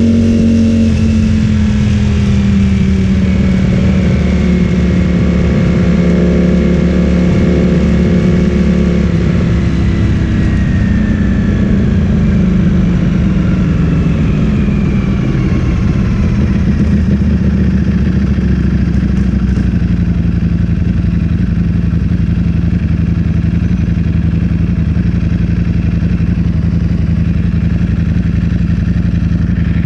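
Ducati Streetfighter V4S's 1103 cc V4 engine through an Akrapovic full-system exhaust, its note falling steadily as the bike slows off the throttle. About two-thirds of the way in it settles to a steady low note.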